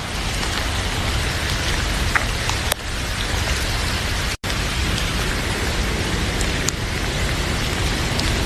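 Heavy rain falling steadily, with a few sharp pops from a crackling wood fire in a fireplace. The sound cuts out for an instant a little past halfway.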